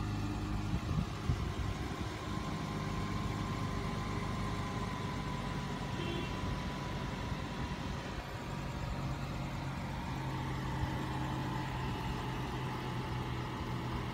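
Dodge Challenger SXT's 3.6-litre V6 idling steadily, with a faint high whine over the engine note.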